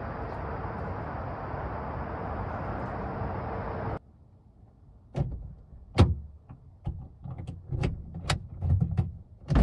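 Steady running noise with a faint constant hum that cuts off abruptly about four seconds in. It is followed by a string of irregular knocks and thumps from things being handled and doors or panels being moved around a pickup truck.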